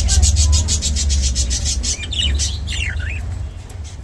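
Clearwing budgerigar gnawing at a calcium and mineral block: a fast, even run of scratchy beak scrapes, about ten a second. About two seconds in come a few quick chirps that slide in pitch. A low rumble sits underneath.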